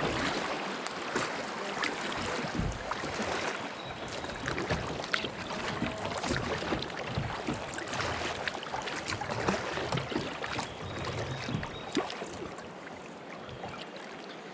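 Kayak paddles splashing in the water: an uneven run of short splashes over a steady wash of water noise.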